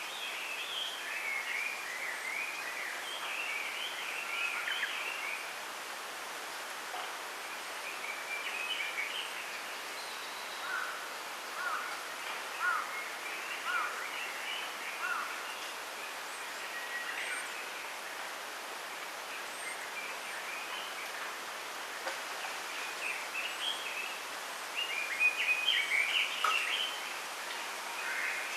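Small songbirds chirping and twittering in several bursts, the loudest near the end, with a run of short, lower single notes about once a second in the middle. Beneath them is a steady hiss of wind in a bamboo grove.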